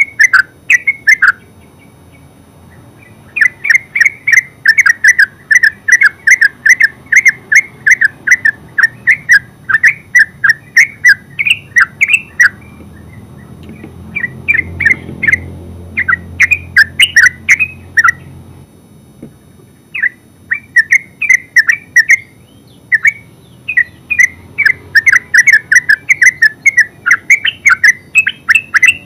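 Yellow-vented bulbul singing its rapid chattering 'ngeropel' song: long runs of quick repeated notes, about three a second, broken by a few short pauses.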